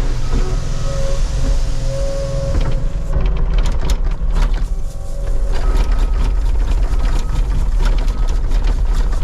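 Diesel engine of a compact loader running steadily with a hydraulic whine, and from about three seconds in a dense clatter of crushed stone pouring and rattling.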